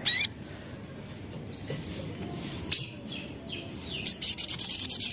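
Sogok ontong (sogon) bird calling. A loud, high sweeping note comes at the start and a short sharp note just before three seconds in, then from about four seconds a fast high trill of about ten notes a second.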